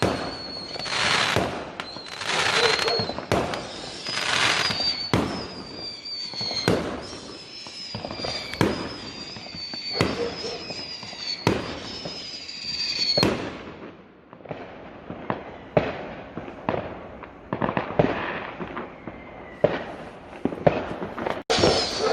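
Fireworks going off: a long run of bangs and crackles, with whooshing bursts every second or so early on. A steady high whistle sounds over them and cuts off suddenly about 13 seconds in.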